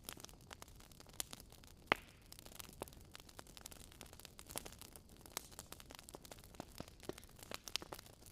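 Wood fire crackling, with irregular sharp pops and snaps over a soft low hiss; one louder pop about two seconds in.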